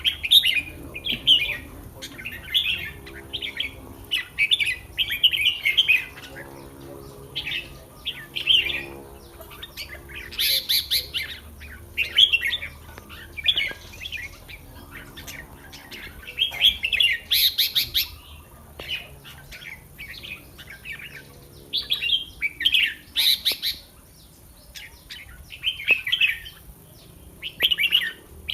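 Red-whiskered bulbul singing: short, quick chirping phrases repeated every second or two, with brief gaps between them.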